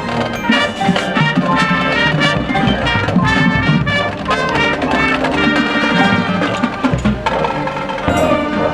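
High school marching band playing a field show: brass section sounding loud, fast note figures over marching percussion.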